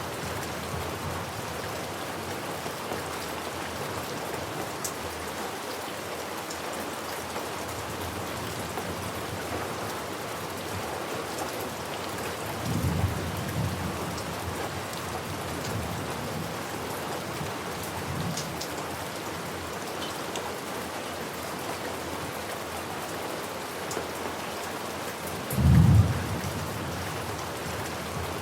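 Steady rain falling, with low rolls of thunder about halfway through and a louder one near the end.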